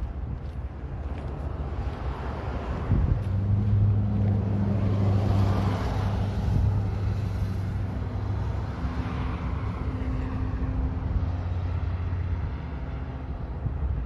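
A motor vehicle engine passing by: a steady engine hum joined by a rushing noise that builds over a few seconds, peaks about midway, then fades away.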